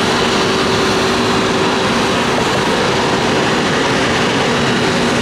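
Jet airliner engines running loud and steady, a dense rushing noise with a steady whine laid through it.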